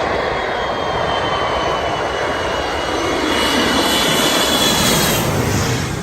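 Fixed-wing aircraft coming in to land, its engines making a steady roar with a thin high whine over it. The sound swells to its loudest about five seconds in, then falls away as the aircraft passes.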